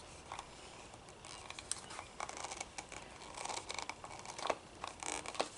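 Faint, irregular plastic clicks and scraping from the bump head of a Craftsman 25cc string trimmer being pushed in and twisted against its notches while he tries to get it off.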